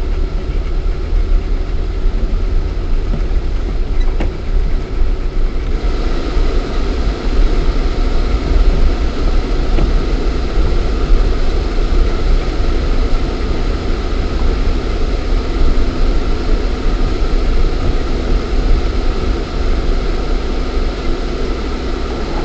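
Lada Niva 4x4's 1.7-litre four-cylinder petrol engine and drivetrain running as it drives, heard from inside the cabin as a heavy low rumble. A rougher, hissier noise joins about six seconds in.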